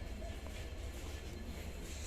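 Steady background noise of a railway station: a low rumble under an even hiss, with no distinct events.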